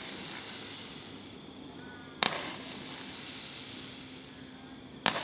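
Two bangs from a multi-shot fireworks cake bursting over a field, about three seconds apart, each trailing off briefly.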